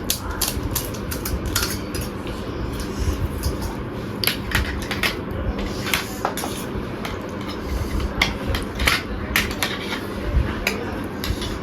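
Cutlery clinking and scraping against dishes during a meal: irregular sharp clicks, some in quick clusters, over a steady low background hum.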